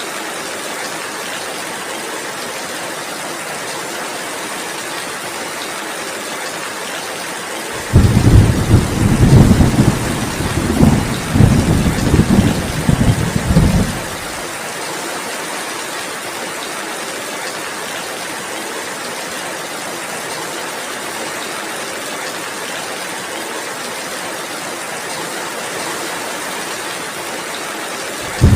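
Steady heavy rain, with a clap of thunder that starts suddenly about a quarter of the way in and rumbles for about six seconds before stopping. Another thunderclap breaks in right at the end.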